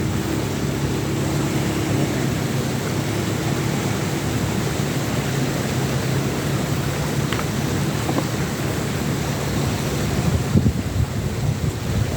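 Wind buffeting the microphone over a steady background rush, the gusts growing stronger near the end, with a low steady hum through the first few seconds.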